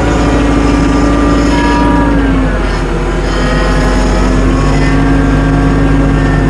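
Tractor engine running as the tractor drives through snow, its note dipping about two and a half seconds in and picking back up over the next couple of seconds.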